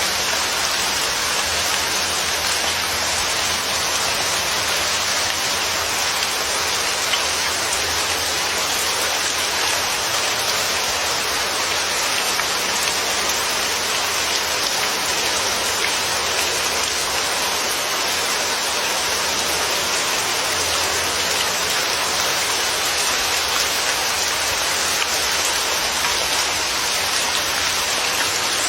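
Steady, even rainfall pattering on a surface.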